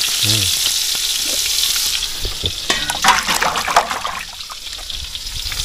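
Fish frying in a small amount of oil in a pan, sizzling steadily. Partway through, a few sharp clinks and scrapes break in, and after them the sizzle drops for a moment before building again.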